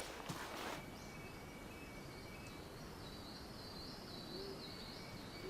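Faint forest ambience with a faint high, wavering animal call about halfway through and a thin steady high tone behind it.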